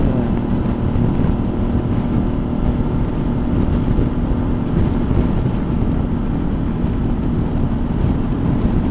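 Suzuki V-Strom motorcycle engine running steadily at cruising speed, with a constant low hum and wind rushing over the microphone.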